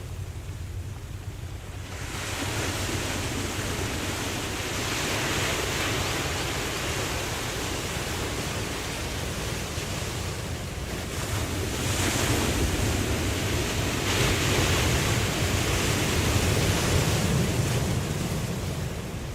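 Ocean surf washing and breaking in several swells that build and fade, over a steady low rumble of wind on the microphone.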